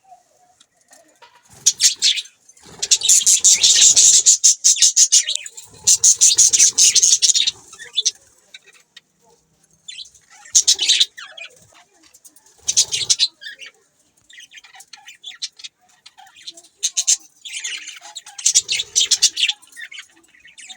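Budgerigars chattering and chirping: fast, high-pitched warbling in loud spells of a second or two, separated by quieter gaps with scattered chirps.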